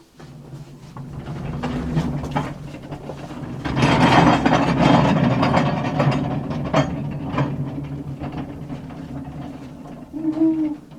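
Steel-wheeled mine car rolling along rail track: a rumbling, clicking clatter that builds, is loudest about four seconds in, and then slowly fades.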